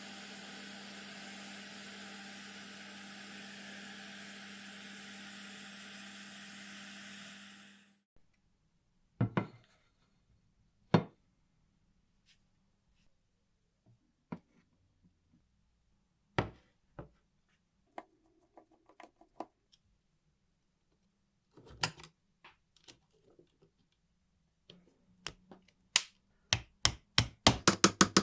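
A steady hiss with a low hum from a workshop tool runs for about eight seconds and cuts off abruptly. Sharp metal clicks and taps from small mechanical-calculator parts being handled follow, ending in a fast run of clicks.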